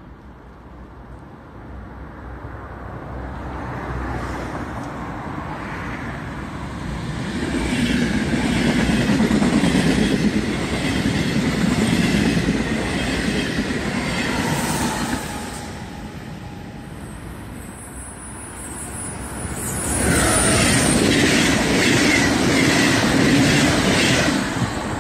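Passenger trains passing close at speed: a rising rumble as one approaches, then a loud, rhythmic clatter of wheels over the rails with a whine that drops in pitch as it goes by. After a short lull, about four-fifths of the way through, a second loud passing clatter sets in.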